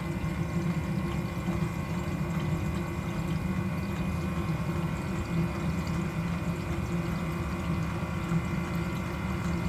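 Diesel-fired water heater running steadily as it ramps up after ignition, a steady low hum with a faint high whine, along with coolant circulating through the lines.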